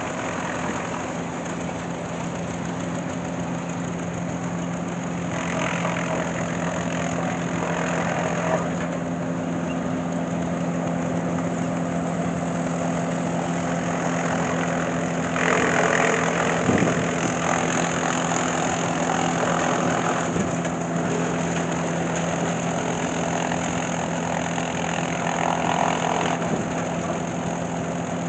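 An engine running steadily at a constant speed, with louder noisy stretches coming and going over it.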